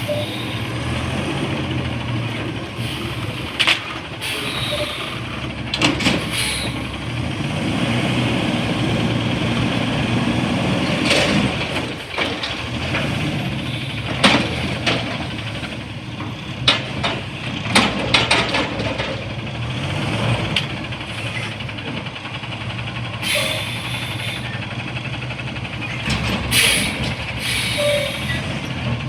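CNG front-loader garbage truck running, with several sharp metal clanks and hisses of its air brakes.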